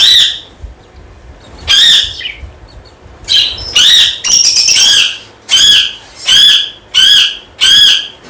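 Lovebirds calling: a series of loud, shrill squawks, each about half a second long, a few at first and then coming steadily about every two-thirds of a second.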